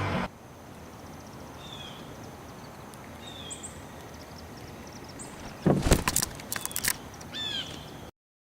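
Outdoor background with northern cardinals giving short, sharp falling chirps, a few times. About six seconds in there is a brief cluster of loud clicks and knocks. The sound cuts off near the end.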